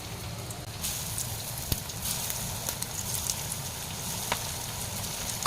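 Potato-and-poha rolls coated in sago flour deep-frying in hot oil in a kadhai: a steady sizzle with scattered crackles and pops, getting stronger about a second in.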